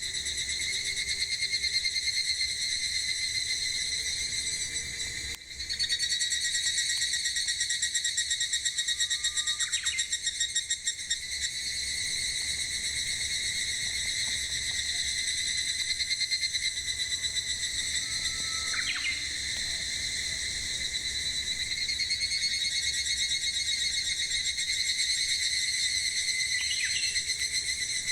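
Cicadas singing in a steady, high, rapidly pulsing drone that dips briefly twice. A bird gives a few short rising calls over it.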